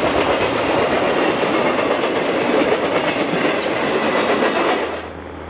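Freight cars of a passing train rolling by at close range, steel wheels running on the rails. About five seconds in, the sound cuts to a much quieter, steady low hum.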